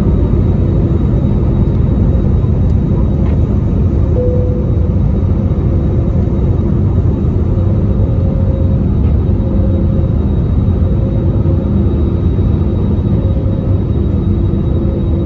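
Cabin noise inside an Airbus A320neo under takeoff or climb power: a loud, steady rumble of the engines and rushing air, with a faint steady hum of tones over it.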